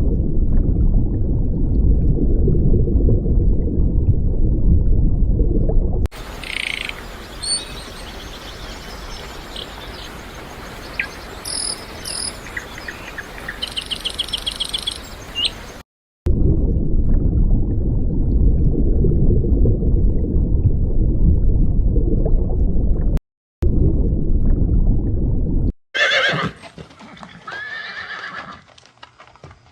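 Horses: two long stretches of heavy, low hoofbeat noise, split by a quieter stretch with short high chirps. Several whinnies near the end.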